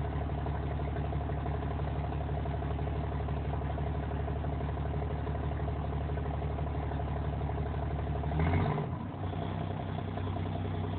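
The 5.9-litre Cummins inline-six turbo diesel in a 1993 Dodge W350 idling steadily after a cold start at 15°F with no block heater. About eight and a half seconds in, a brief louder surge is followed by a change in the idle note.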